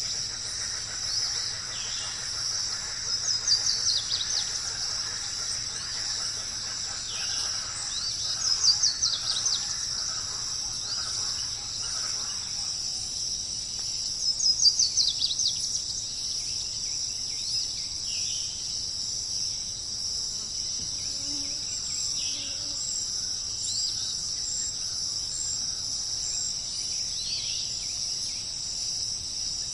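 A songbird singing short falling trilled phrases every few seconds, loudest in the first half, over a steady high-pitched chirring insect chorus.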